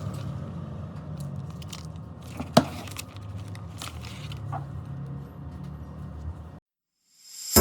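Scattered small clicks and taps over a low steady hum, with one sharper click about two and a half seconds in; the sound cuts off to silence shortly before the end.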